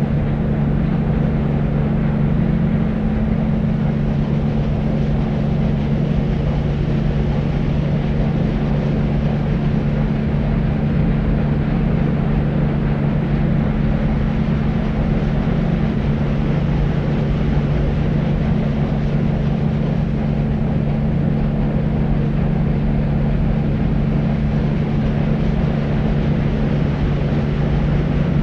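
Deep white noise for sleep: a steady, low-pitched hiss with no change at all, its weight in the low end with a strong hum-like band, and little treble.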